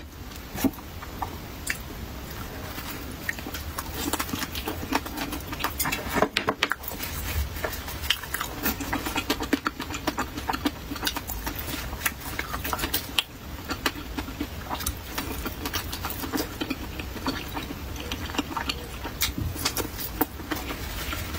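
A person biting and chewing a pan-fried pumpkin cake with bits of pickled cucumber and chili: many small, irregular wet clicks and crunches from the mouth.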